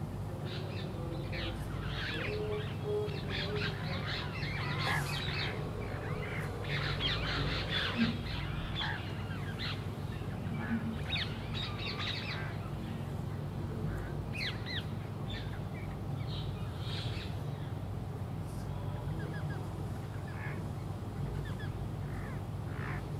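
Birds chirping and calling in many short, quick notes, busiest in the first half, over a steady low hum.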